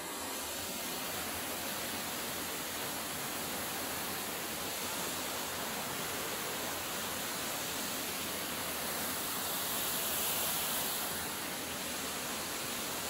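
Waterfall, water rushing steadily, with a slight swell about ten seconds in.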